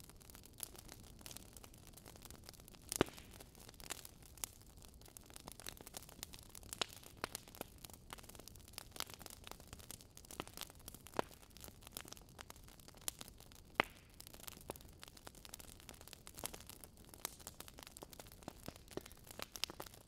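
Wood fire crackling: irregular sharp pops and snaps over a faint low hiss, with two louder pops, one about three seconds in and one past the middle.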